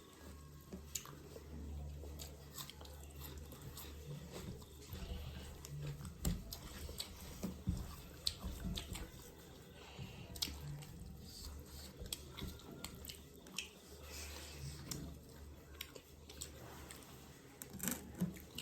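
A person chewing rice and mutton curry close to the microphone, with many short wet mouth clicks and lip smacks scattered throughout, over a steady low hum.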